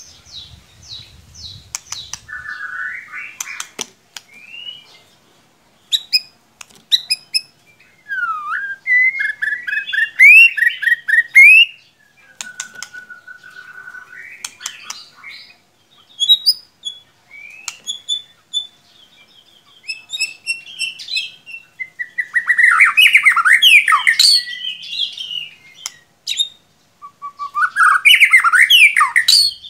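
White-rumped shama (murai batu) song: a string of varied phrases of clear whistles, sliding notes and rapid trills, with loud harsh chattering bursts in the last third. It is played as a prompting recording to get a caged shama singing.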